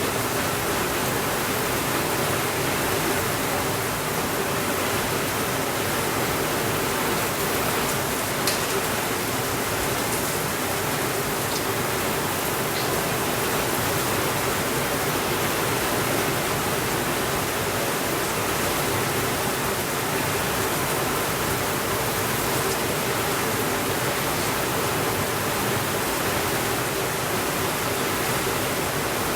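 Steady, even rainfall with a few faint crackles from a wood fire, the sharpest about eight seconds in.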